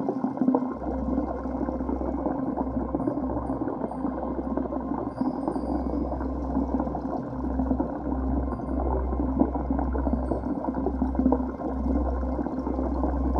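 Muffled, steady rushing and gurgling of flowing river water heard by a microphone under the water, with a deep rumble that comes and goes.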